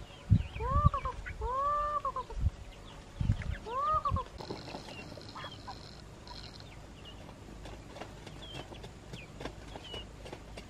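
Farm poultry calling: about four rising-and-falling calls in the first four seconds, mixed with a few low thumps, then quieter with small high chirps and scattered clicks.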